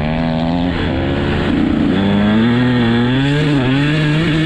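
Dirt bike engine running, its pitch wavering with the throttle and then climbing slowly through the second half, with a brief dip about three and a half seconds in.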